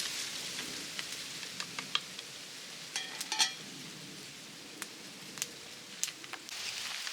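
Food sizzling in hot oil in a cooking pot: a steady hiss with scattered sharp pops, and a brief clatter of a metal utensil against the pot about three seconds in.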